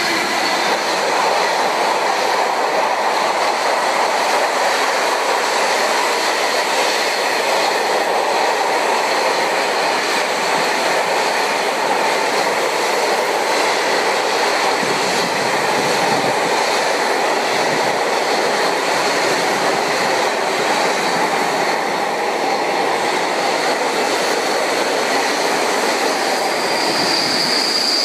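EWS Class 66 diesel-hauled freight train passing, its wagons rolling steadily over the rails for a long stretch, with a high wheel squeal near the end.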